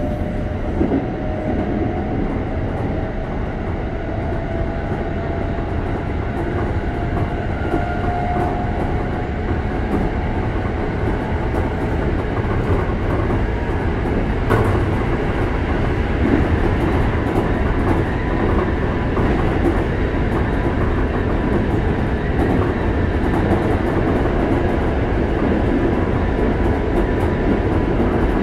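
Inside a Keikyu 600 series car under way: the Toyo GTO-VVVF traction inverter whines in slowly rising tones as the train accelerates, over a steady wheel and rail rumble that grows gradually louder. A single sharp click comes about halfway through.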